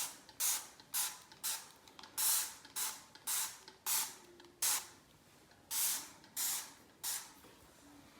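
Back-and-forth scrubbing strokes on a glass shower door, about two a second, stopping about seven seconds in.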